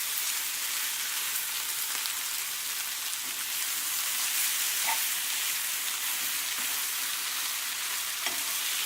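Raw chicken pieces frying in a pan with onions and tomatoes, a steady sizzle, with a couple of light knocks of the stirring spoon about five seconds in and near the end.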